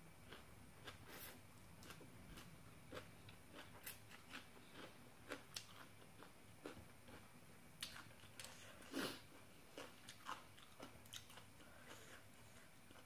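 A person chewing and biting into spicy papaya salad with raw shrimp, eaten by hand: faint, irregular crunches and mouth clicks, the loudest about nine seconds in.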